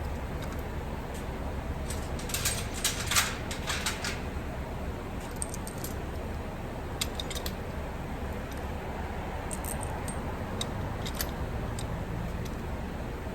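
Light metallic clinks and jingles of small steel engine parts and hand tools being handled, in a cluster about two to four seconds in, then single clicks spread over the next several seconds, over a steady low background hum.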